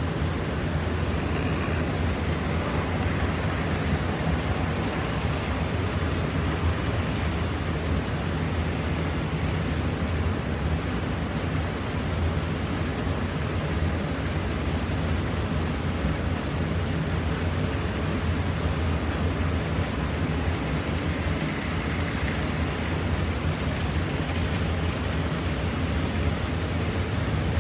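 N-scale model trains running on the layout track: a steady low motor hum over an even hiss, unbroken throughout.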